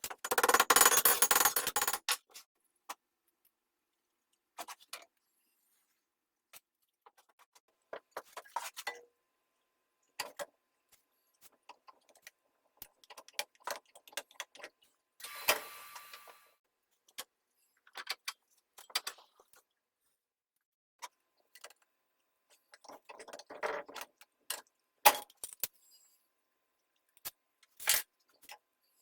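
Intermittent metal clinks and handling noises from sword parts and tools being worked on a bench. A louder rasping noise fills the first two seconds and another comes about halfway through.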